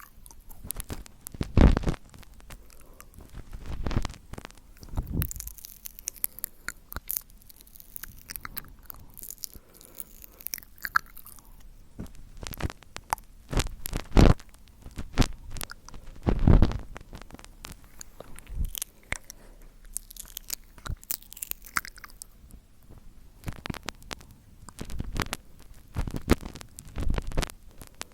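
Close-miked ASMR mouth sounds: irregular wet clicks, pops and smacks of the lips and tongue, with a few louder ones about 2, 14 and 16 seconds in.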